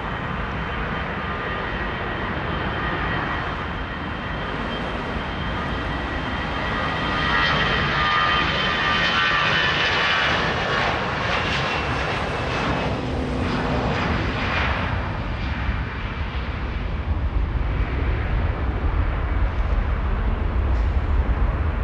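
Airliner's engines passing close by: a high whine over a steady roar, loudest about eight to eleven seconds in and sliding down in pitch, then a deep rumble builds toward the end.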